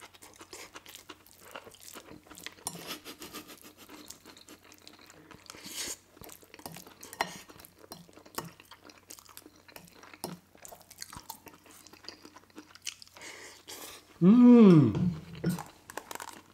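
Close-miked chewing of pad thai noodles, with small wet mouth noises and scattered clicks of a fork on the plate. About 14 seconds in, a short, loud hum from the eater, rising then falling in pitch.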